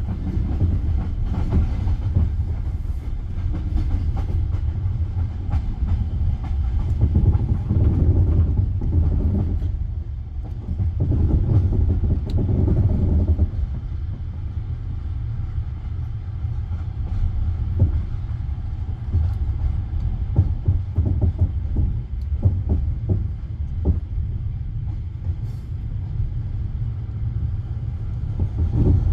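Passenger railway coach running along the track: a continuous low rumble with irregular clicks of the wheels over rail joints, heard from inside the coach.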